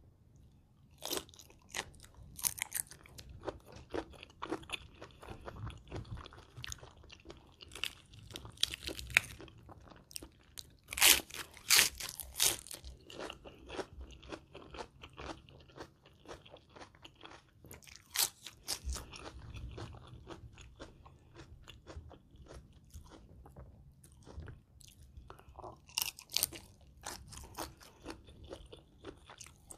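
Close-miked chewing of a spicy shrimp salad with raw and blanched shrimp and lettuce: repeated crisp crunches and biting, loudest about eleven to twelve seconds in.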